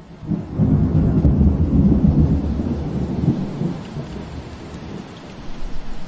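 A roll of thunder rumbling low over steady rain. It swells within the first second, stays strong for about three seconds and then dies away, leaving the hiss of rain.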